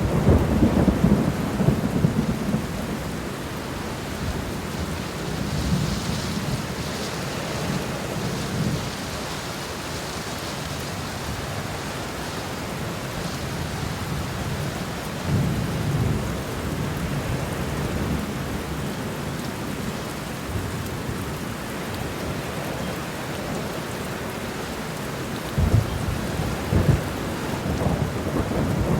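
Steady rain falling, with low rolls of thunder that swell and fade several times: at the start, about a quarter of the way in, about halfway and near the end.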